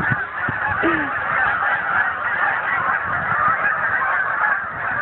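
A large flock of geese honking as they circle and come down, many calls overlapping into a steady din.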